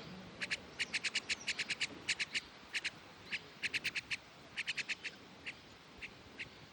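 Myna bird calling: quick runs of short, sharp chirps, about six or seven a second, broken by short pauses and a few single notes.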